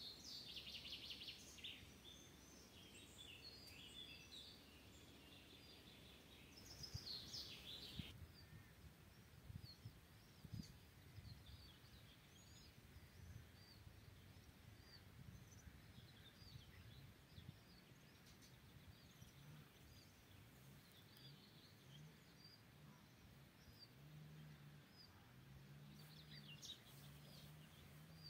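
Faint forest birdsong: a rapid high trill in the first couple of seconds and again about seven seconds in, then many short high chirps scattered through the rest, over a quiet natural background with a faint low hum near the end.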